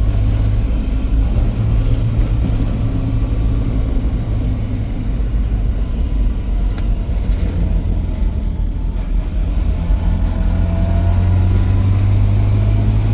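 A car driving at a steady pace, its engine and road noise a steady low hum.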